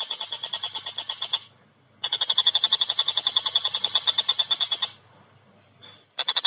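Tengkek buto (collared kingfisher) calling a rapid chattering series of sharp notes, about nine a second. It comes in two bursts with a pause of about half a second between them, then a longer pause of over a second before it starts again near the end.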